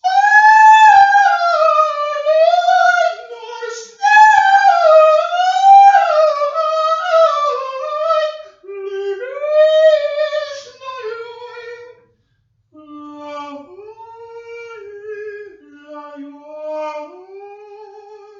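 A woman singing a wordless soprano vocalise in high, sliding phrases. About twelve seconds in it breaks off, then resumes softer and lower in pitch.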